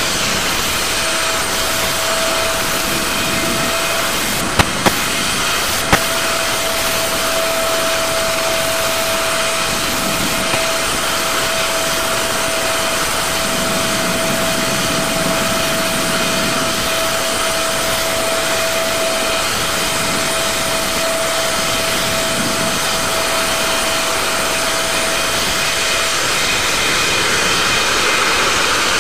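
Aerospatiale AS365N1 Dauphin helicopter running steadily, its twin turboshaft engines and rotors giving a steady whine over a dense rushing noise; the whine fades out near the end. Two brief clicks about 4.5 and 6 seconds in are dropouts of the old recording.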